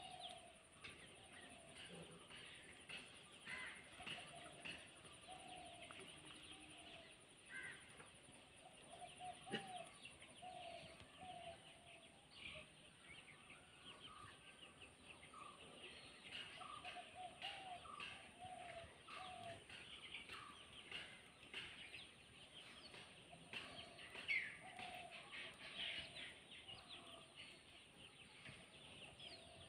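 Faint chirping and short calls of birds, repeated irregularly, with scattered light clicks.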